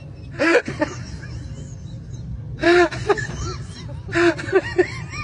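Several short, high-pitched cries with rising and falling pitch, over a steady low rumble.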